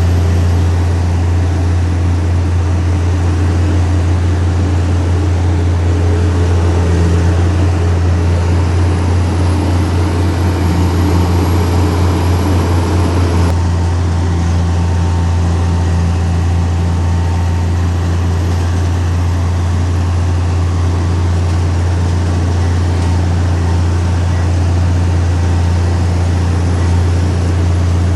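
Diesel engine of heavy earthmoving machinery running steadily, a loud, low, unbroken drone.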